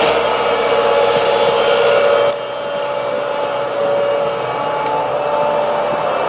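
Heavy diesel machinery running hard, a steady engine noise with a whine in it; the sound drops slightly and changes about two seconds in.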